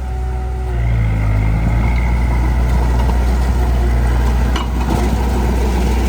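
Heavy machinery's diesel engine running under load. It picks up and rises slightly about a second in, with one short clank past the middle.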